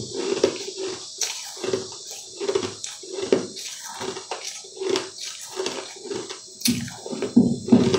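Close-up chewing of sugar-coated purple candy balls, one to two chews a second at a steady pace, loudest near the end.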